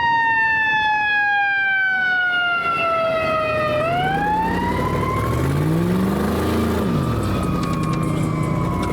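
A siren wailing, its pitch falling slowly, then swinging back up about four seconds in and holding. Under it a vehicle engine revs up and back down.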